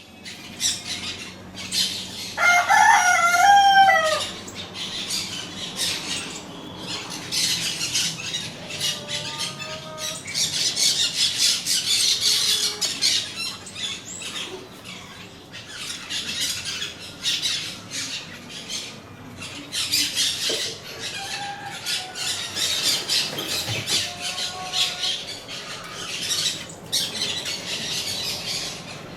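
Parakeets chattering and screeching continuously in rapid high calls, with one louder, longer call about three seconds in.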